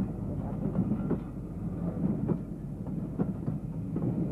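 Steam train running: a steady low rumble with sharp beats about once a second.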